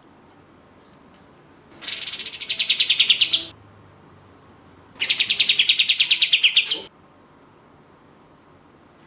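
Kapas tembak (olive-winged bulbul) singing two rapid rattling bursts of repeated high notes, each nearly two seconds long. These are the bird's fast 'tembakan' volleys, used as a lure recording to stir other birds to sing.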